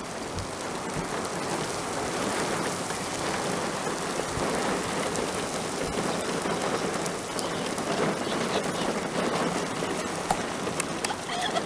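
Steady rushing noise of hurricane rain and wind, with scattered sharp ticks and a few low thumps.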